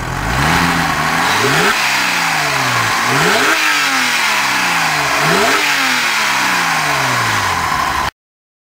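Porsche 996 GT3's flat-six engine revved through its exhaust three times, each a quick rise in pitch followed by a slow fall back toward idle. The sound cuts off suddenly near the end.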